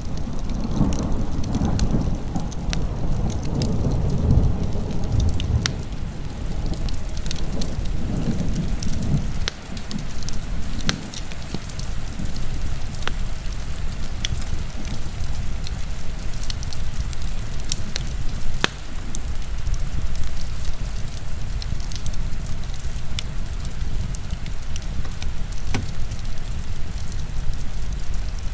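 Heavy rain mixed with a crackling wood fire: a steady hiss with sharp pops and snaps scattered throughout. A low rumble fades out about nine seconds in.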